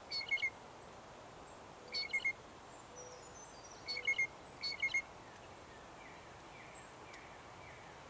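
Backyard bird calls: four short clusters of two or three quick notes, with fainter, higher chirps and a few short falling notes in between.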